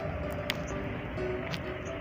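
Sendaren, the long hummer bow on a pegon kite, humming in strong wind: steady droning tones that shift in pitch now and then, over the low rumble of wind on the microphone. A couple of faint ticks stand out briefly.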